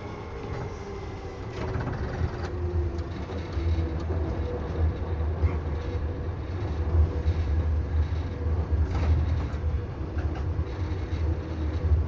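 Seibu 2000 series electric train running, heard from inside the car as it slows for a station stop: faint motor whine falling in pitch over the first few seconds over a heavy low rumble, which grows stronger about two seconds in, with scattered rail clicks.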